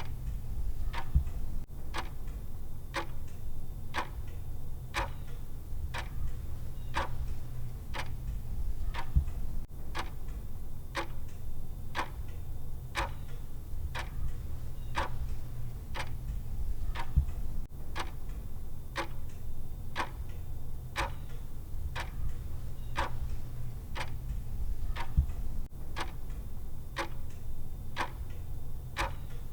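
Countdown timer's clock tick ticking steadily, about once a second, over a low steady hum.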